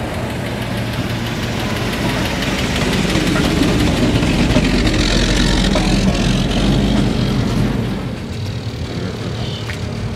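A motor vehicle's engine running close by, swelling louder over several seconds and easing off about eight seconds in.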